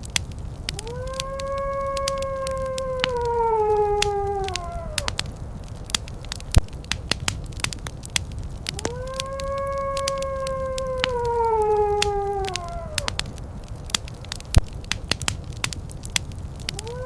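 Fire crackling with sharp pops over a low rumble, while a wolf howls twice: each howl rises quickly, holds a steady pitch, then falls away. A third howl begins at the very end.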